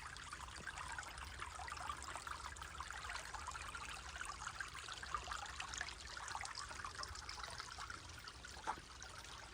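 Creek water trickling over stones: a steady babbling, with one brief tick near the end.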